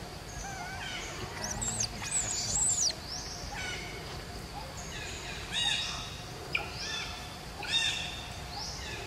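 Birds calling in the background: a series of high, whistled chirps, some sweeping up and down in pitch, about one every second, over a faint steady outdoor hiss.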